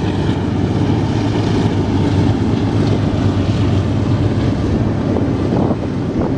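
Train passing: a steady, loud rumble of diesel locomotives and rolling cars.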